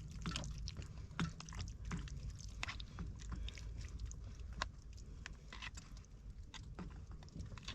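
A person eating: chewing with small, irregular clicks and crackles throughout, over a steady low rumble.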